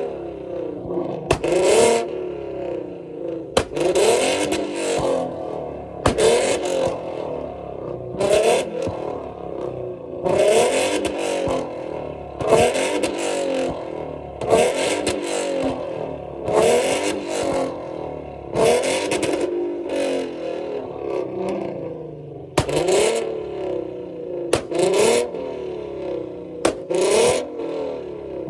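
Car engines revved hard over and over, each rev a quick rise in pitch, with sharp pops and bangs from the exhaust on nearly every rev, roughly every two seconds: backfire from cars tuned to shoot flames.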